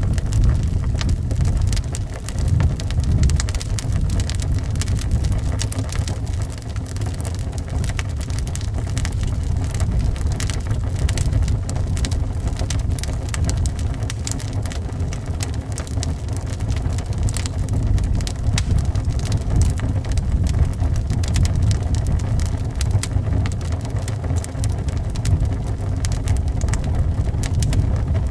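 A wood fire crackling, dense small clicks, over wind blowing as a steady low rumble.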